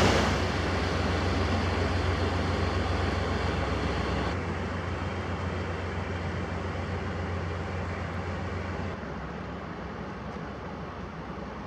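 Low, steady drone of a passing inland motor tanker's 1520 hp diesel engine, under a steady hiss, growing gradually fainter as the vessel moves away.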